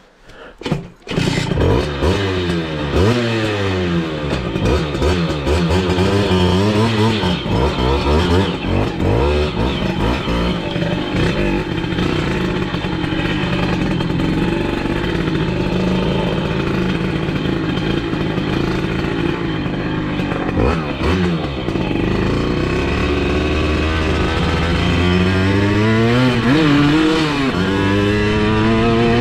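Simson S51 moped's 85cc two-stroke engine under way, coming in loud about a second in after a few clicks. It revs up and down repeatedly at first, runs steadier through the middle, and rises in pitch again near the end as it speeds up.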